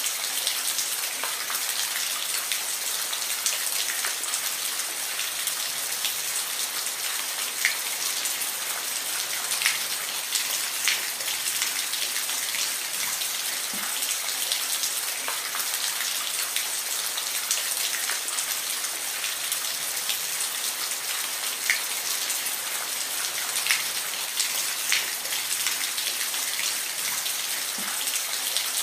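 Steady rain falling, an even hiss with many distinct drops ticking at random through it.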